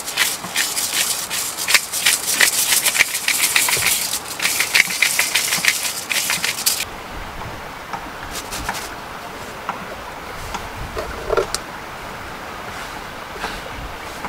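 Hand-held salt grinder twisted over a pot, grinding Himalayan salt with rapid crunching clicks; it pauses briefly about four seconds in and stops near the seven-second mark. Faint scattered handling clicks follow.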